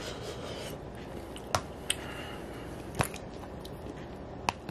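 Mouth sounds of a man chewing a spoonful of macaroni and cheese: a few short, sharp wet clicks over a steady hiss.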